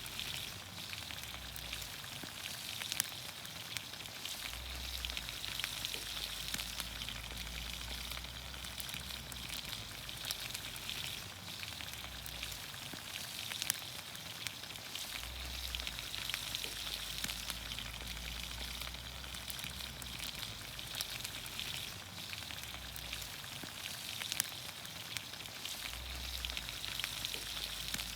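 Green beans, onions, carrots and potatoes cooking in olive oil over a campfire: a steady sizzle with frequent small pops and crackles.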